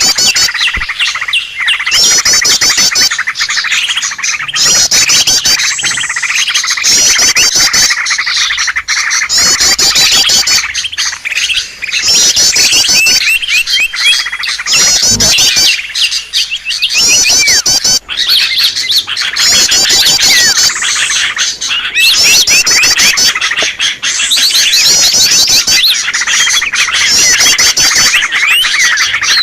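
Bird-lure recording of a noisy crowd of small birds chirping and calling over one another. A fast high trill recurs every couple of seconds, with denser chattering below it.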